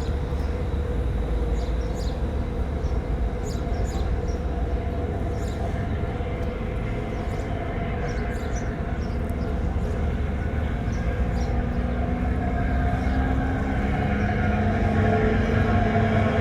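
A steady low rumble of a heavy engine or vehicle with a droning hum, growing a little louder and rising slightly in pitch near the end, over low wind buffeting on the microphones.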